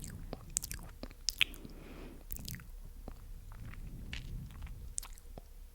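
Close-microphone ASMR mouth sounds: sticky, wet clicks and smacks of tongue and lips, coming irregularly a few times a second.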